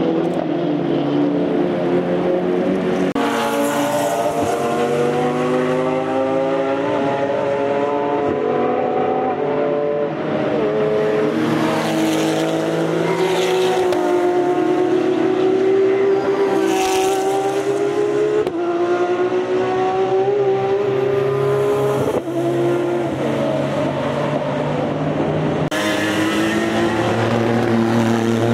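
Race cars with loud open exhausts passing one after another, engines revving up and down through the gears. Several engines overlap at once, and a new car arrives every few seconds.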